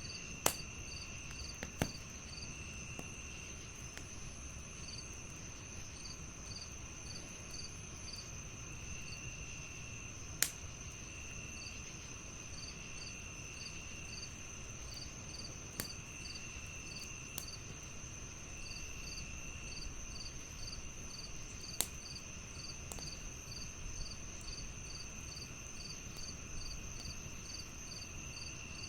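Crickets chirping steadily in several layers: a continuous high trill, a rapid even pulse of chirps, and shorter trills that come and go. A handful of sharp pops from a crackling wood fire cut through, the loudest about half a second in and near ten seconds.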